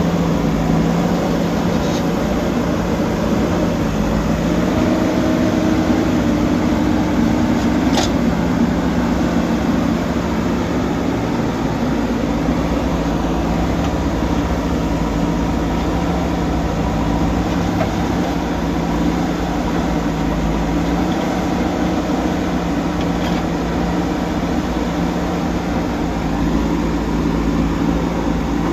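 Diesel engine of a JCB backhoe loader running under load. Its pitch shifts a little during the first several seconds, then holds steady, with a couple of brief sharp clicks.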